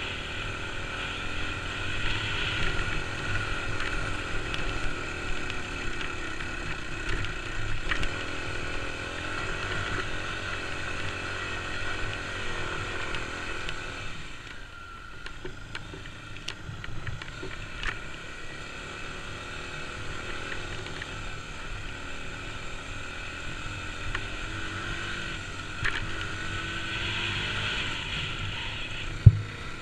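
Kawasaki KLX250's single-cylinder four-stroke engine running under way as the trail bike is ridden. It eases off briefly about halfway through, then picks up again. A single sharp knock comes near the end.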